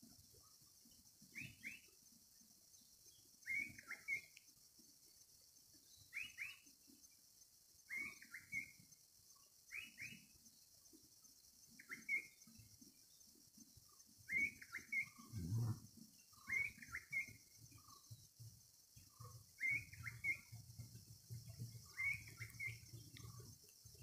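A bird calling over and over, faintly: a short phrase of two or three quick high notes about every two seconds. Under it runs a faint low rumble that swells about halfway through and again near the end.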